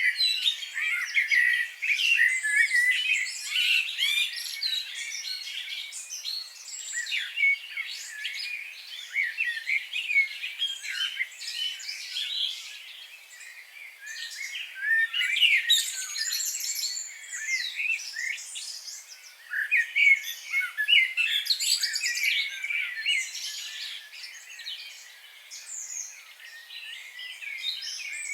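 Several birds singing and chirping at once in a dense chorus of quick overlapping chirps and whistles, with louder flurries near the start, about halfway through and again about two-thirds of the way through.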